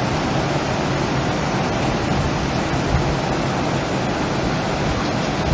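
Fast-flowing floodwater rushing past, a steady, unbroken roar of water noise.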